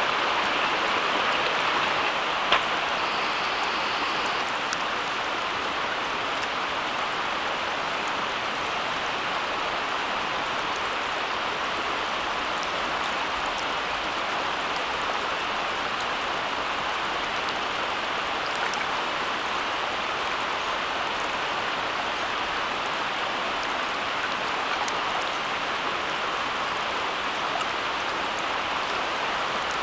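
Steady rushing water noise, with a single sharp click about two and a half seconds in.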